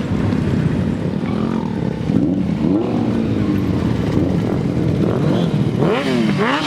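Several motorcycle engines running close by, their pitch rising and falling as they rev and pass, with sharper swooping pitch changes near the end.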